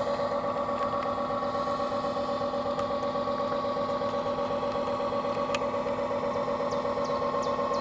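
Radio-controlled model tugboat running steadily: a constant mechanical hum with a fine, even pulsing underneath.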